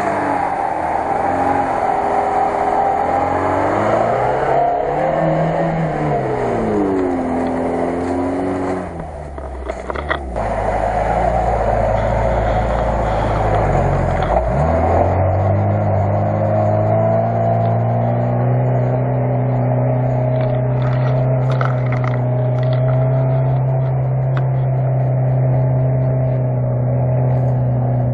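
Lada Niva's four-cylinder petrol engine revving hard under load while climbing a muddy slope, the revs rising and falling at first, then held high and steady for the last ten seconds or so as the wheels spin and dig in the mud.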